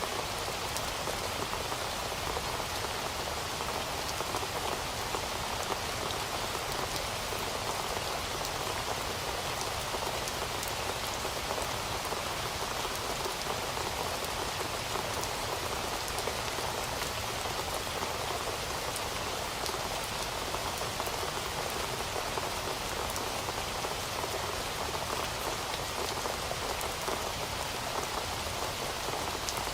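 Heavy rain falling steadily, a dense unbroken hiss of drops with fine patter in it and no change in strength.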